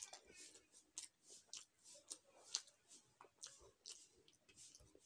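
Faint, irregular wet clicks and smacks of a person chewing a mouthful of rice and curry, with fingers working through the rice on the plate.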